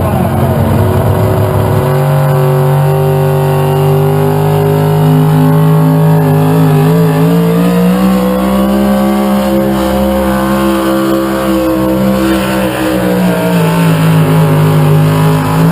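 A competition pulling tractor's engine running hard under load. Its pitch climbs over the first couple of seconds, holds high through the middle and sags, then swells once more near the end.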